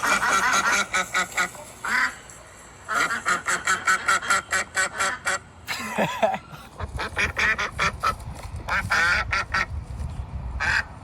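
Ducks quacking in quick runs of repeated calls with short pauses between them. A low rumble joins about seven seconds in.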